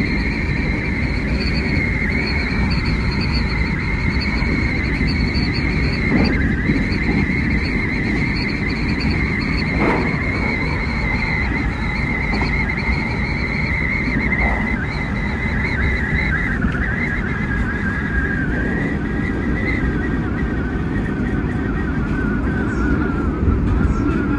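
Hanshin 9300 series electric train running at speed, heard from inside the driver's cab: a steady rumble of wheels on track with a high electric whine that drifts down in pitch in the second half, and a couple of brief knocks from the track.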